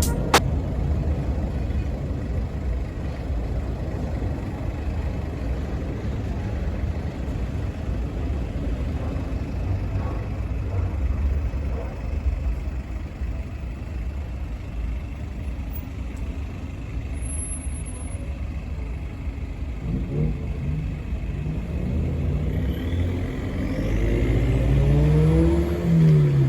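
Diesel locomotive engine running with a steady low rumble; in the last several seconds its pitch climbs and it grows louder as the engine revs up.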